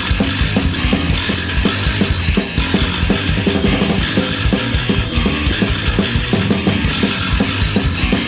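Punk rock band playing an instrumental passage live, with dense, driving drumming throughout.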